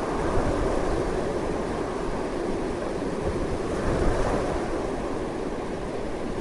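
Strong wind blowing steadily, a dense rushing noise with a low rumble underneath, swelling a little about four seconds in.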